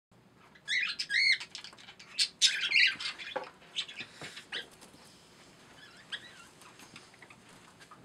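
Pet birds in their cages calling and chirping, with loud, warbling, pitch-gliding calls in the first three seconds, then fainter scattered chirps.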